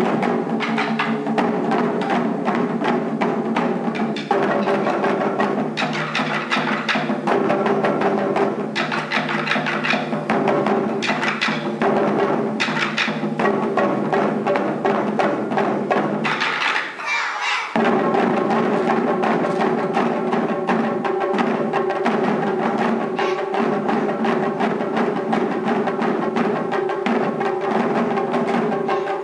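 Taiko drums struck in rhythm over backing music with a melody. The music breaks off briefly about seventeen seconds in, then starts again.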